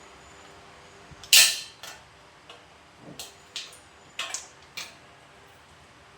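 Small metal clinks and clicks from handling screws and parts of a motorcycle headlamp assembly: one sharp, louder clink about a second in, then a string of lighter taps.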